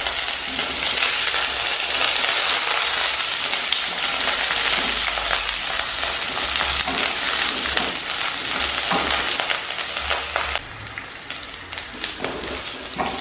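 Chopped garlic, curry leaves and green chillies sizzling in a little hot oil in a non-stick kadai, stirred with a silicone spatula. The sizzle quietens noticeably near the end.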